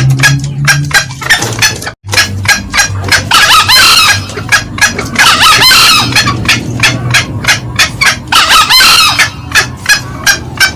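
Green junglefowl lure calls played loud: a rapid run of sharp clucks, about four a second, with three louder crowing calls about a third of the way in, at the middle and near the end. A brief break about two seconds in, where the recording loops.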